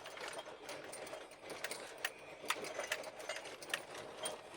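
Vehicle driving on a dirt road: a steady running sound with many irregular sharp ticks and clicks, typical of gravel under the tyres and small rattles.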